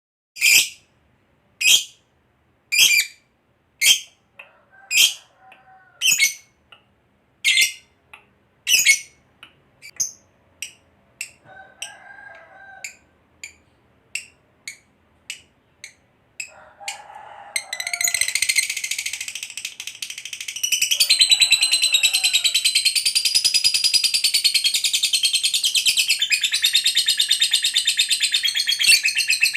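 Lovebird calling. Sharp, shrill single chirps come about once a second, then quicker and softer ones. About seventeen and a half seconds in it breaks into a long, unbroken, rapid chattering trill: the 'ngekek panjang' prized in fighter lovebirds.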